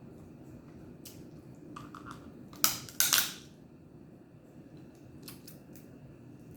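Crab shell being cracked: a few small clicks, then two loud sharp cracks close together about two and a half to three seconds in, and a few faint clicks later.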